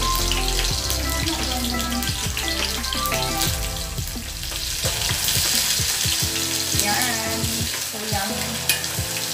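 Onions sautéing in hot cooking oil in a pan: a steady sizzle while they are stirred. Background music plays along.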